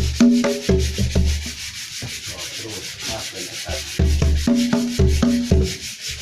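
Percussion: a hand-drum pattern of deep open strokes and higher pitched strokes over a continuous, fast rasping shake, like a shaker or scraper. The drum strokes drop out for a couple of seconds in the middle, then resume while the rasping goes on.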